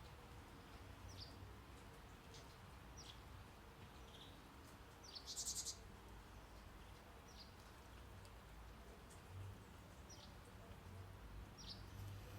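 Faint birds chirping, short falling chirps every second or two with one louder burst about five seconds in, over a low steady brown-noise hiss.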